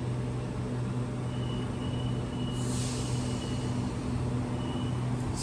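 Electric suburban train standing at the platform, giving a steady low hum with a faint high tone that comes and goes. A short hiss is heard about halfway through.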